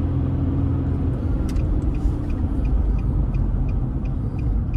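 Steady car engine and road rumble heard inside the cabin. From about a second and a half in, a turn signal ticks evenly, about three times a second.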